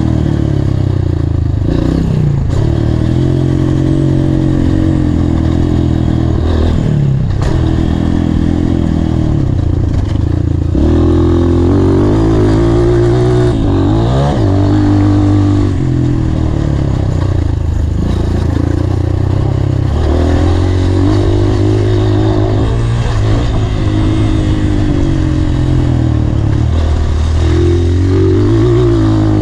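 Honda CRF230F's single-cylinder four-stroke engine revving up and down continually as the dirt bike is ridden around a motocross track, the pitch climbing and dropping with throttle and gear changes. A few short knocks and clatter from the bike are heard over the engine.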